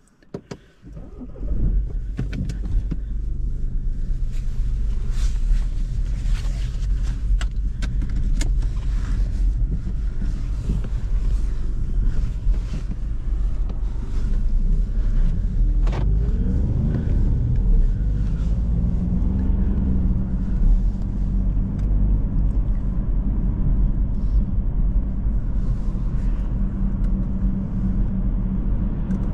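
2017 BMW 116d's 1.5-litre three-cylinder diesel engine running as the car pulls away and drives, heard from inside the cabin as a steady low drone with road noise. The engine note rises around the middle as the car accelerates, and a couple of clicks come at the very start.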